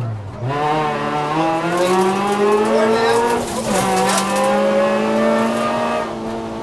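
Ford Fiesta ST rally car's four-cylinder engine, heard from inside the cabin, pulling hard with revs climbing. There is a quick upshift about three and a half seconds in, after which it pulls strongly again and holds high revs.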